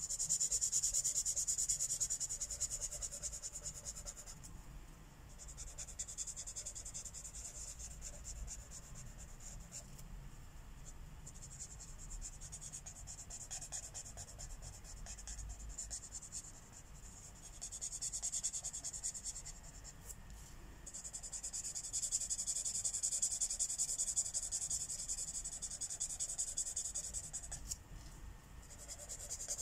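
Marker tips rubbing across paper in colouring strokes. The hiss comes in stretches of a few seconds each, with short pauses between them.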